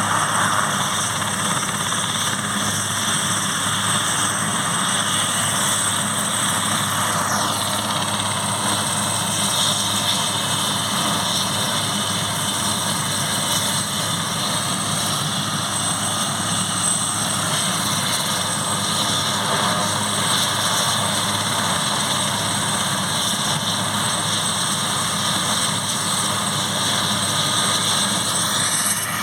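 Airbus AS 532AL Cougar helicopter's twin turboshaft engines and rotor running steadily, with a high turbine whine. The whine drops a little in pitch about seven seconds in and rises again near the end.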